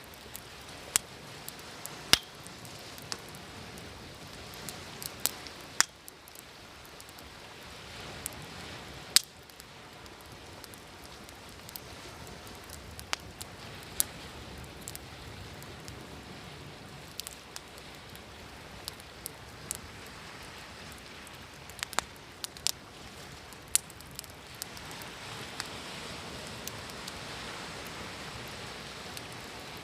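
Wood fire crackling, with irregular sharp pops, over a steady wash of sea waves that swells gently near the end.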